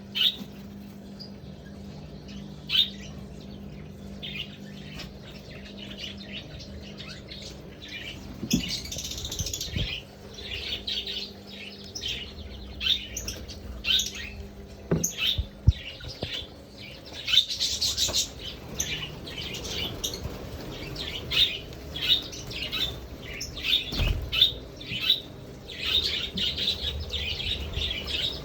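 Budgerigars chirping and squawking in short, quick calls, sparse at first and much busier from about a third of the way in. A low steady hum sits under the first half, and there are a couple of soft knocks.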